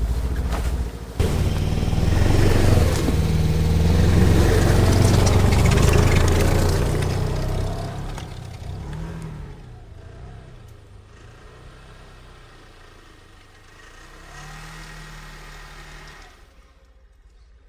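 Snowmobile engine revving hard as the machine pushes through a snowdrift, then fading off, with a brief swell again near the end.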